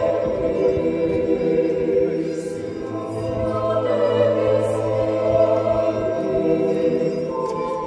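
A group of voices singing an Orthodox church chant a cappella, holding long sustained notes.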